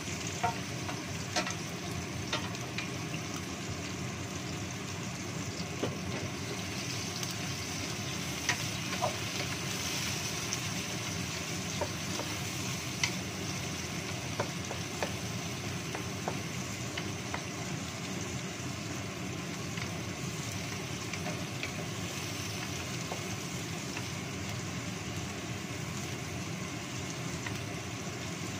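Sliced shallots, garlic and petai sizzling steadily in hot oil in a wok, stirred with a wooden spatula that gives occasional short taps and scrapes against the pan. A steady exhaust-fan hum from a kitchen range hood runs underneath.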